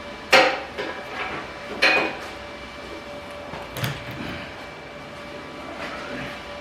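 Three sharp clunks of something being handled, spread over the first four seconds, over a steady faint mechanical hum.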